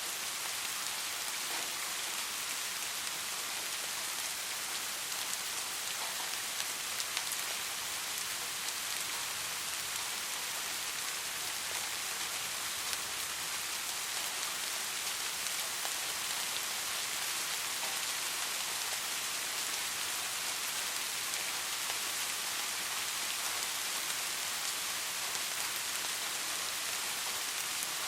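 Steady rain falling: an even hiss, with occasional individual drops ticking through it.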